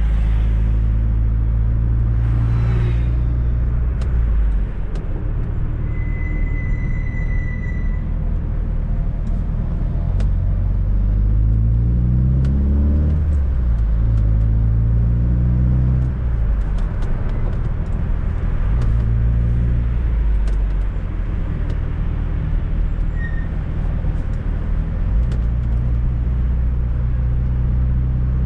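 Fiat Coupe 16V Turbo's engine heard from the cabin while driving: it revs up through a gear about ten seconds in, rising in pitch, drops at a gearshift, then runs on steadily, with a few light clicks and rattles.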